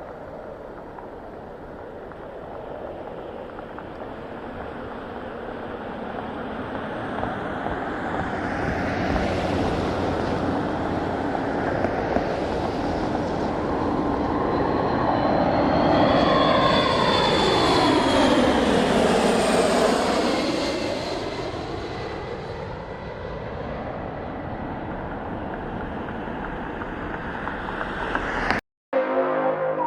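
RC-135 four-engine jet flying past: the engine noise builds to a peak about two-thirds of the way through, with whistling tones sweeping downward in pitch as it goes by, then fades away. The sound cuts off abruptly just before the end.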